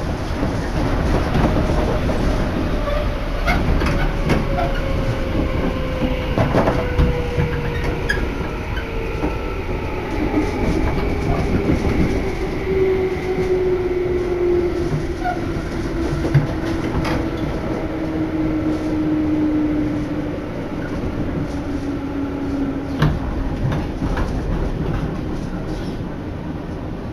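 Chuo Line electric train running, heard from inside the carriage: a steady rumble with scattered rail clicks and a whine that falls slowly in pitch as the train slows into a station.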